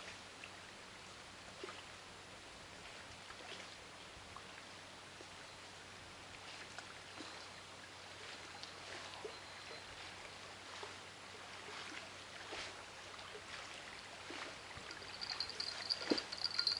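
Quiet riverside: a faint steady hiss of flowing water with scattered small ticks. Near the end a high-pitched chirring with rapid clicks starts and grows louder.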